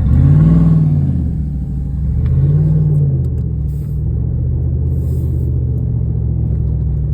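A four-wheel-drive truck's engine revving up and dropping back twice, then held at steady raised revs: the truck is stuck in mud and being driven to get it free.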